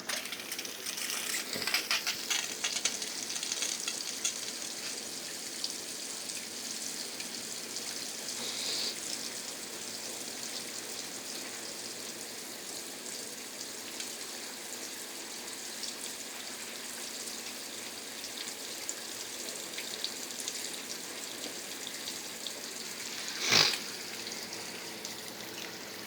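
Water spraying from a Brastemp Ative top-load washer's inlet jets ("aqua sprays") into the drum as it fills at the start of a wash cycle: a steady hiss of rushing water. Near the end there is a single short, loud knock.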